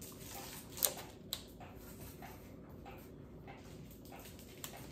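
Faint crunching of a milk chocolate peanut cream wafer being bitten and chewed, with a couple of sharper clicks about a second in, over quiet room tone.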